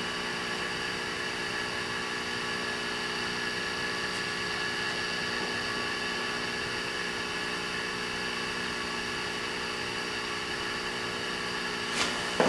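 Steady mechanical hum made up of several fixed tones, unchanging throughout, with a couple of short clicks near the end.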